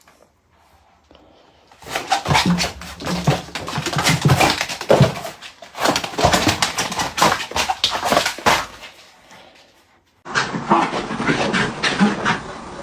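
A dog making vocal sounds in quick irregular bursts. The sound fades out, and after a short gap a different recording cuts in abruptly about ten seconds in.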